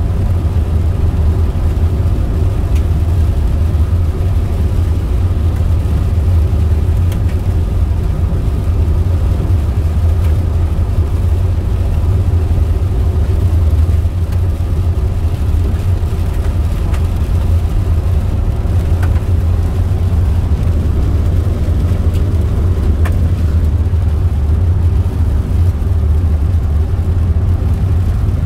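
Steady low drone of a car's road and engine noise heard inside the moving vehicle's cabin, with a few faint ticks.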